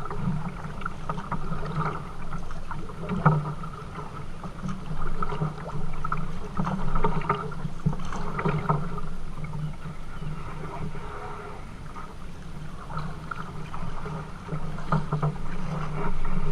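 Kayak moving on the river: an irregular splashing and sloshing of water, with small knocks scattered throughout.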